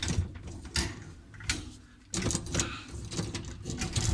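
Plastic dishwasher filter parts being handled and pressed into place, giving several sharp clicks and knocks over a low rustle of handling.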